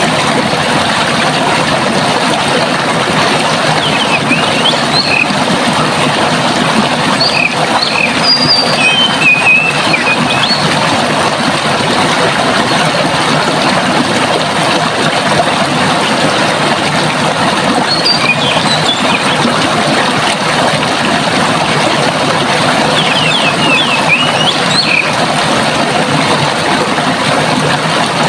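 Steady rushing of flowing water, with songbirds chirping and trilling over it in short bouts, several times.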